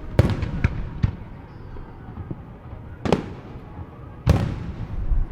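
Aerial fireworks exploding: a quick run of sharp bangs in the first second, then a single boom about three seconds in and the loudest a little past four seconds, each trailing off in a low rumbling echo.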